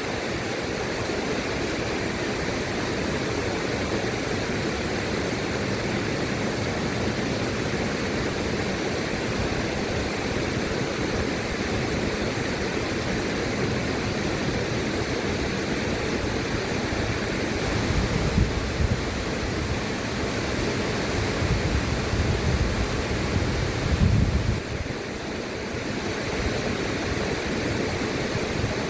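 River water rushing steadily, an even hiss-like roar, with short bursts of low rumble a little past halfway and again near the end.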